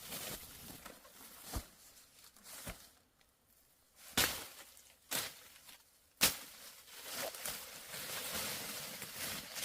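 Irregular sharp knocks, roughly a second apart, with a short quiet gap between them and rustling, scraping noise in the last few seconds: handling or hand work with objects.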